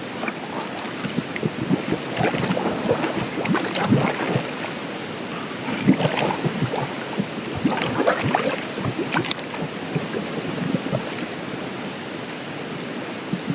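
Kitchen knife being sharpened on a wet whetstone: irregular wet scraping strokes, some louder than others, about three or four seconds apart.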